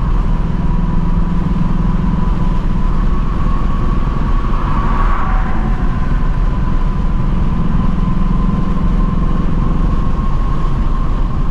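2024 Ford Mustang GT's 5.0-litre V8 through its stock active exhaust, a steady low drone while cruising. It is heard inside the cabin together with road and wind noise.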